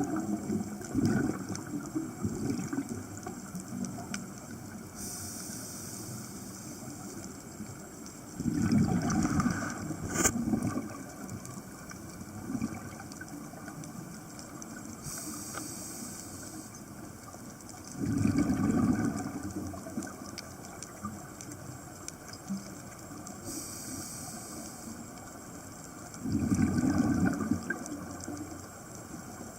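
Scuba diver breathing through a regulator underwater. A hissing inhalation alternates with a louder bubbling gush of exhaled air, one cycle about every eight to nine seconds, over a steady underwater wash.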